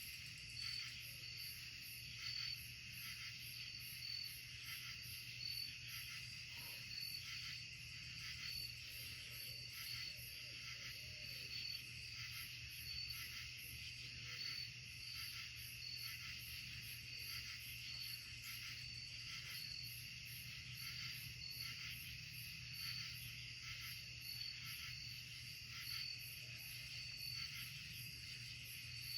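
A night chorus of crickets and other insects: a steady high-pitched trilling that pulses in an even rhythm, over a low steady hum.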